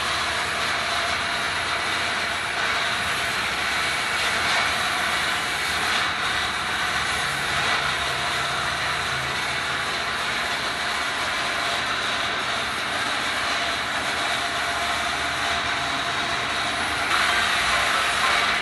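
BMW F800R's parallel-twin engine running steadily through a Noriyoshi slip-on sport exhaust, a even, noisy drone that gets a little louder near the end.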